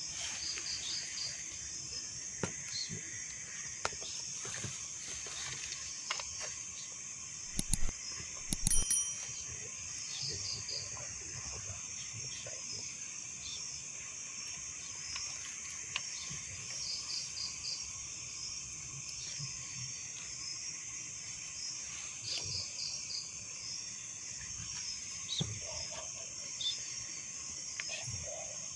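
Night insects calling continuously: a steady high-pitched shrill drone with rows of quick repeated chirps over it. A few loud sharp knocks come about eight seconds in.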